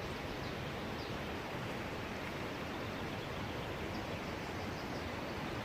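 Steady rushing of the Keila waterfall, an even noise of falling water without a break.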